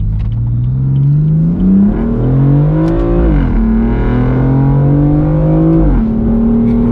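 BMW M4's twin-turbo 3.0-litre straight-six accelerating hard. The engine note climbs through a gear, falls sharply at an upshift about halfway through, climbs again, and falls at a second upshift near the end before holding steady.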